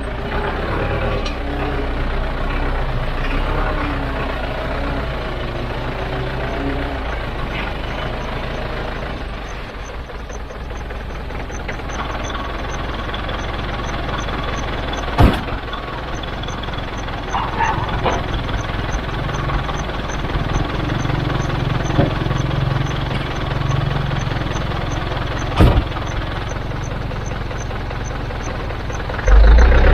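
Heavy machinery's diesel engine running steadily at a low rumble, with two sharp clanks, one about halfway through and one near the end.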